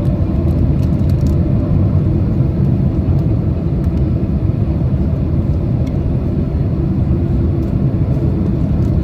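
Steady low rumble of a Boeing 767's engines and rushing air, heard inside the passenger cabin during the approach to landing.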